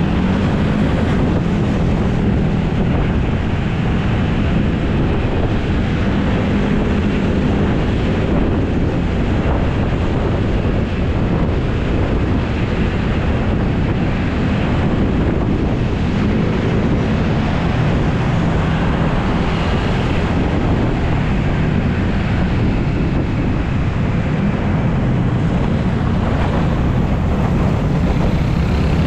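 Wind buffeting the microphone of a dashboard-mounted action camera on a moving motor scooter, with the carburetted Honda Beat's small single-cylinder engine running steadily underneath.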